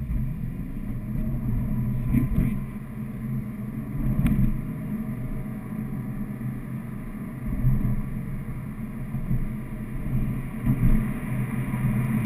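Porsche Cayman's engine and exhaust droning low as the car pulls away and drives on, heard from inside the cabin. The note swells in several surges under acceleration.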